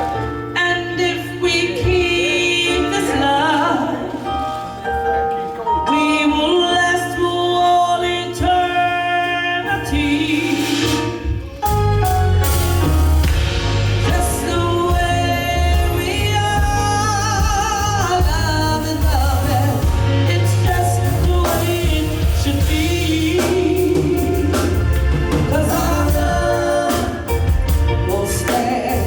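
A live band performance of a love song: a singer's voice carries the melody over a light accompaniment. About twelve seconds in, the full band comes in with a much heavier low end.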